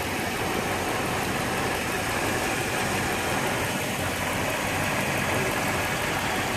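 Pontiac Grand Prix GXP's 5.3-litre V8 idling steadily.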